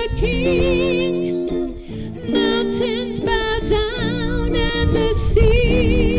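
A woman singing a worship song with a wide vibrato over sustained accompaniment chords, with a steady low wind rumble on the microphone.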